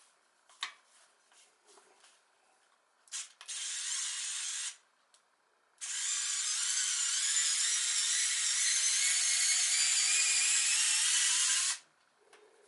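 Electric drill/driver running in two bursts, a short one and then a long one of about six seconds whose whine slowly rises in pitch before it stops suddenly. A few light clicks of handling come before them.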